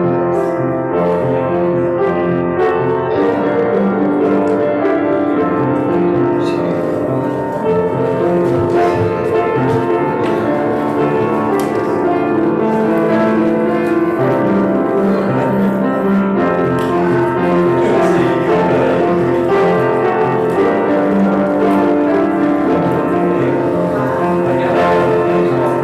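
Keyboard music of slow, sustained chords, played as the closing music after a church service's benediction.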